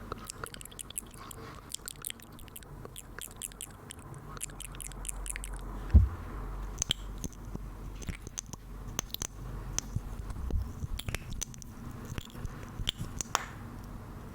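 Close-miked ASMR mouth sounds: quick run of fine wet clicks and smacks, then sparser, sharper clicks, with one heavy low thump about six seconds in.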